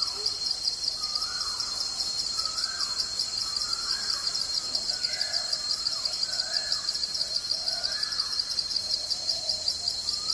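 Amazon rainforest insect chorus, a steady high-pitched fast-pulsing drone, with another animal's short rising-and-falling call repeating about once a second over it.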